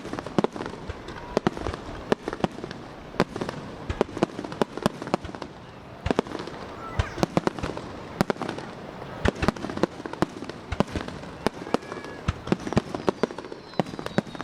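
Fireworks display: aerial shells bursting in a rapid, irregular series of sharp booms and cracks, several a second.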